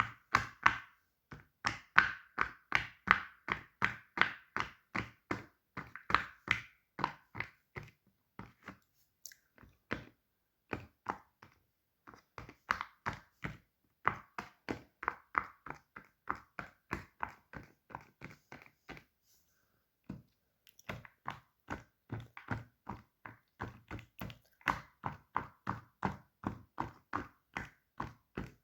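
A fidget toy being tapped or clicked over and over, about three sharp taps a second, in runs that thin out about a third of the way in and stop briefly about two thirds in.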